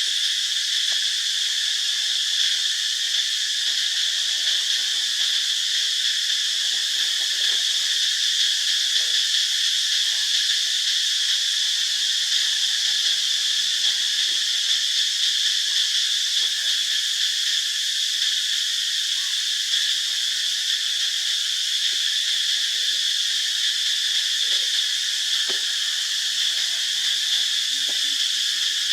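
Insect chorus: a steady, high-pitched drone that holds unchanged without a pause.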